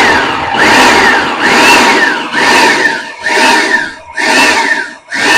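Electric food processor run in short pulses, about one a second, its motor whine rising and falling with each pulse as it chops cilantro, bell pepper and onion into a paste.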